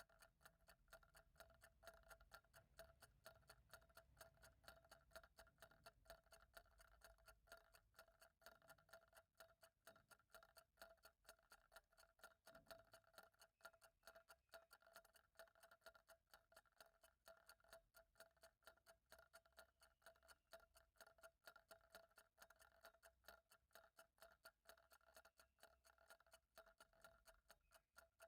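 Faint, even clock ticking, several ticks a second without pause, over a steady faint hum.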